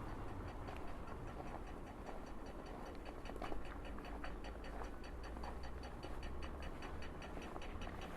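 Pedestrian crossing audible signal ticking rapidly and evenly, about five ticks a second, over a low steady city hum.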